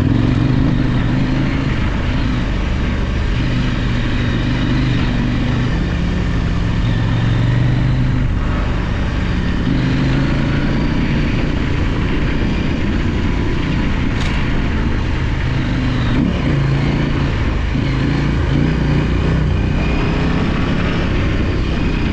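Large adventure motorcycle engine running under way on a rough dirt trail, its pitch rising and falling with the throttle, over steady wind and tyre noise.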